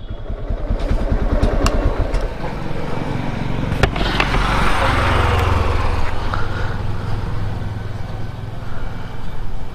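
TVS Apache RTR 160 2V's single-cylinder engine running, its firing pulses clear at first, with a broad rush of wind and road noise building from about four seconds in as the bike rides.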